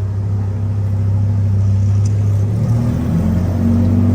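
Car engines running with loud exhausts: a deep, steady drone, whose note shifts a little higher about two and a half seconds in.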